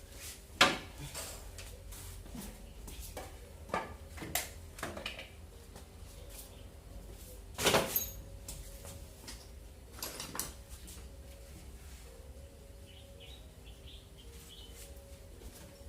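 Scattered knocks and clatter of objects being handled, sharpest about half a second in, with a cluster near the middle, over a faint steady hum. Faint high chirps come in near the end.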